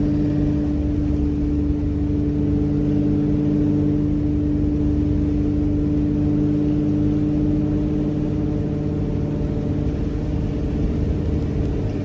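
A truck engine runs steadily. A strong steady whine rides on it and fades out about eight or nine seconds in.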